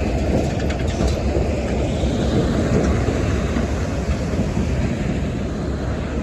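Steady low rumble of a road vehicle on the move, engine and road noise without change in pitch.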